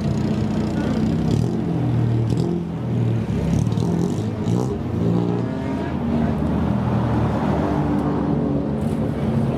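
Engines of modified old Japanese cars (kaido racers) running and being revved, their pitch rising and falling repeatedly.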